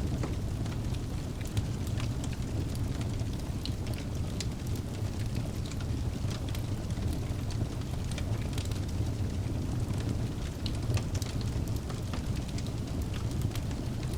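Wood logs burning in a fireplace: a steady low rumble of flame with frequent sharp crackles and pops from the burning wood.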